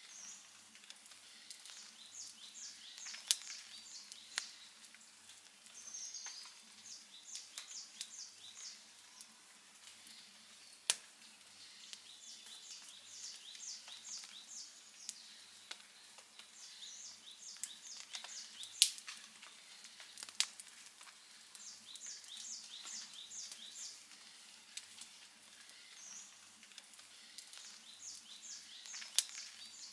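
Outdoor wood campfire crackling, with scattered sharp pops, the loudest about 19 seconds in. Over it, a series of short high chirps repeats every few seconds.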